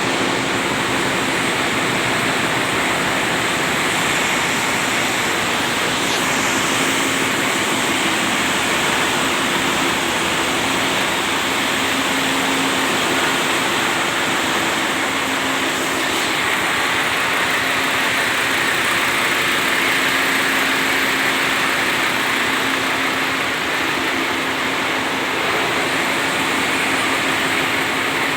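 Ship's engine-room machinery, the marine diesel engines running steadily: a loud, even din with a constant low hum.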